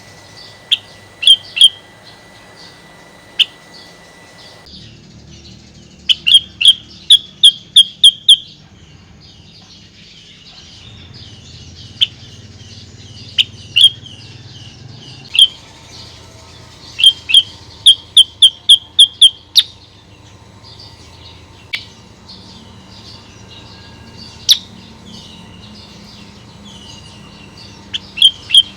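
Female kutilang sutra, a bulbul, calling in runs of loud sharp chirps about five a second, with softer chattering notes between the runs. This is a female's call, used as a lure to set other kutilang sutra singing.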